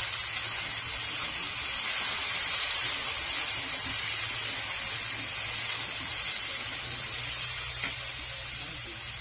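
Diced potatoes frying in hot oil in a karahi: a steady sizzle.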